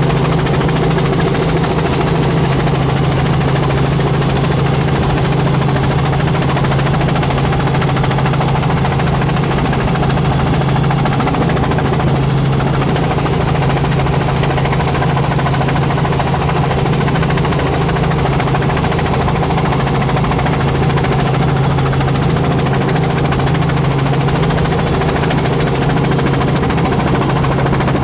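Helicopter in flight: engine and rotor noise, a loud, steady low drone that does not change.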